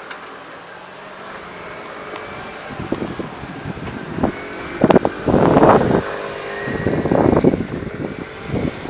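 Electric train passing through a railway level crossing, the noise swelling from about three seconds in with uneven surges and buffeting on the microphone; the crossing's warning bell rings steadily underneath.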